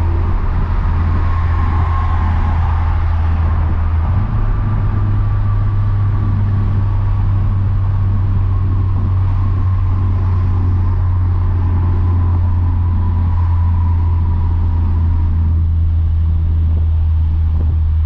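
Modified Audi S3's turbocharged four-cylinder engine droning steadily at highway cruise, heard from inside the cabin over road noise. The low engine note steps up slightly about four seconds in.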